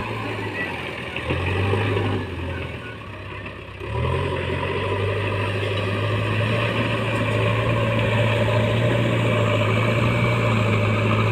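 Heavy diesel machinery engine running. It drops off briefly about three seconds in, then comes back louder and holds a steady low drone.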